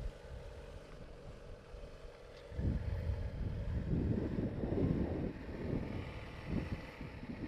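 Wind buffeting the microphone in irregular low gusts, strongest from about a third of the way in to past the middle.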